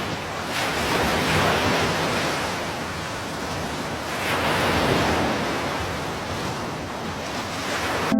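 Surf waves washing in, a steady rushing that swells and fades about every three and a half seconds.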